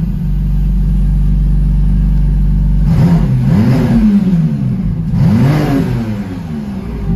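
McLaren Artura's twin-turbo V6 idling steadily, then revved twice with the throttle blipped about three and five seconds in, each rev rising and falling back to idle.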